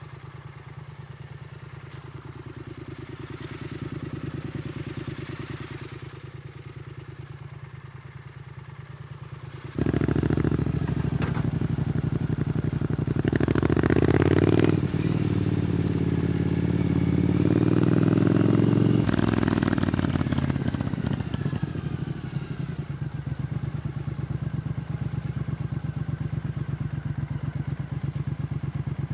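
Triumph Scrambler 900's parallel-twin engine running through an Arrow exhaust, first at a low steady note. About ten seconds in it gets suddenly louder and climbs in pitch in a few steps as the bike pulls away, then settles to a steadier, lower note about twenty seconds in.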